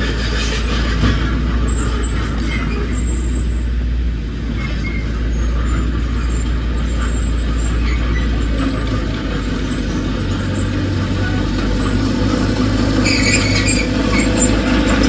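Diesel engine of heavy earthmoving machinery running steadily, with a change in its note about nine seconds in.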